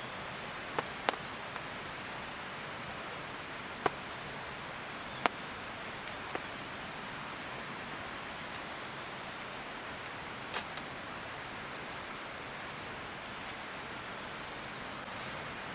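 Wood campfire crackling: a handful of sharp, separate pops over a steady hiss.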